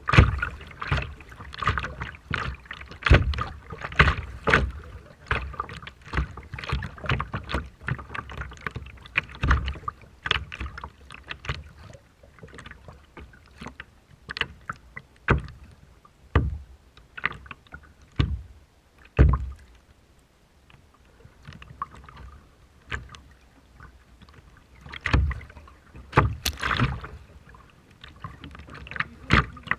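Choppy water splashing and slapping against a small paddled boat, most likely a kayak, in irregular sharp splashes. The splashes come thick at first, thin out through the middle and pick up again near the end.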